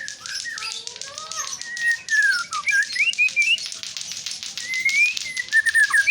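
White-rumped shama singing a run of varied whistled notes that slide up and down, with a fast ticking running behind.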